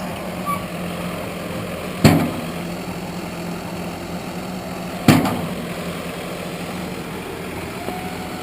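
Engine of a Wood-Mizer portable bandsaw sawmill idling steadily, with two short, loud, sharp sounds about three seconds apart.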